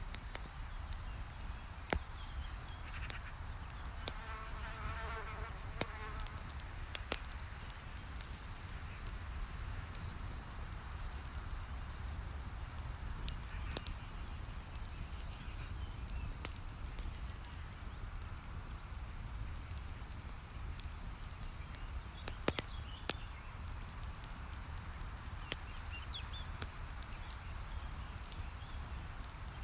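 Campfire crackling, with scattered sharp pops over a steady low rumble. A fly buzzes past about four to six seconds in.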